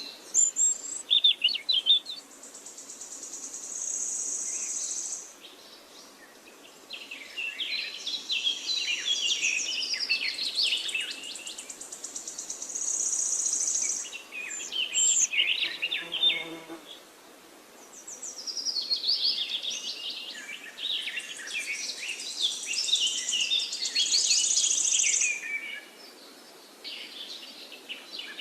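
Songbirds singing: bursts of rapid chirps and high trills a few seconds long, separated by short lulls. A brief low buzzing note comes just past the middle.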